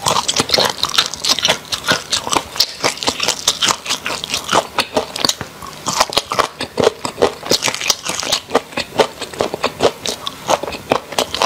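A person chewing crunchy food close to the microphone: a dense, irregular run of crisp crunches and wet mouth clicks, several a second.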